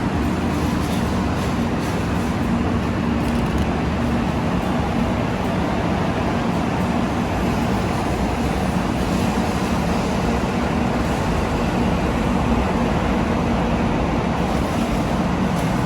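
Shinkansen train running, a steady rushing noise with a low hum underneath that does not change.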